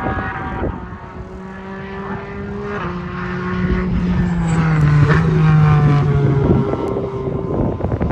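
A car's engine passing at speed on a racetrack. It builds to its loudest about five seconds in, with the pitch falling as it goes by, then fades.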